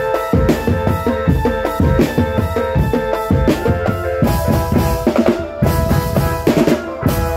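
Marching drum band playing: bass drums and snare drums beat a fast, dense rhythm under a sustained melody line of held notes.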